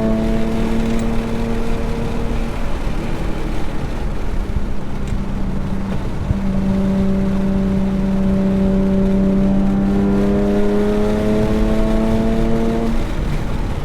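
Nissan 370Z Nismo's V6 engine heard from inside the cabin on track, under steady road and wind noise. The engine note climbs slowly at first, fades under the road noise for a few seconds, then climbs steadily again in one long pull before dropping away near the end.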